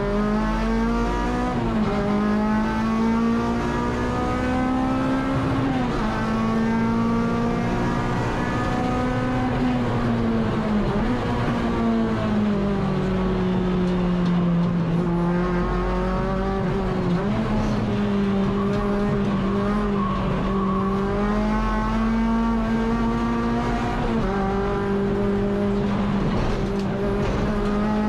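Honda K24 four-cylinder engine of a Civic EG race car heard on board, running at a moderate, fairly steady pace. Its note rises and falls in slow sweeps, with a few short sharp dips.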